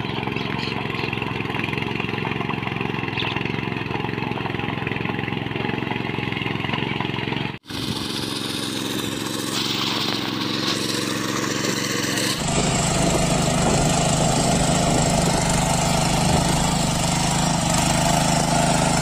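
Small engine of a mini power weeder (power tiller) running steadily. The sound drops out for a moment about eight seconds in and jumps abruptly to a louder, lower note about twelve seconds in.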